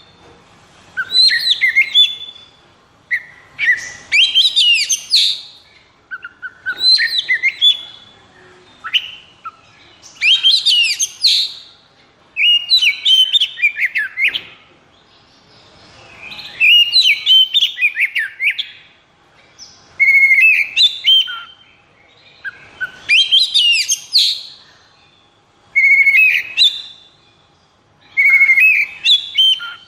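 Oriental magpie-robin (kacer) singing: loud, varied whistled phrases with gliding and rattling notes, each one to two seconds long, coming one after another with short pauses between them.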